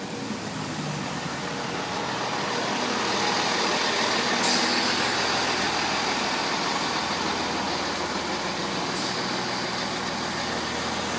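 Class 165 Turbo diesel multiple unit pulling into the platform with its diesel engines running steadily, growing louder over the first few seconds and then holding. Two short high hisses come about four and a half and nine seconds in.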